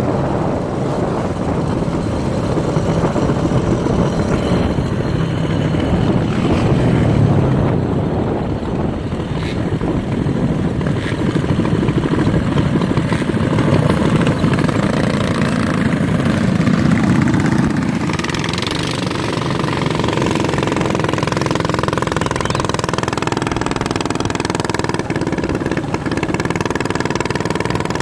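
Minibike's small engine running, swelling and easing in speed several times, then settling into a steadier run for the last third.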